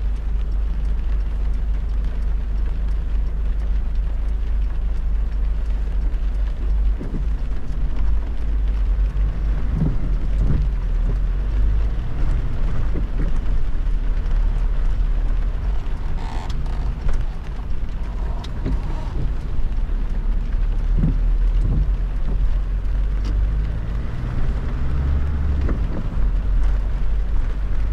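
Car driving on a wet motorway in heavy rain: a steady low rumble of engine and tyres under the hiss of rain and road spray.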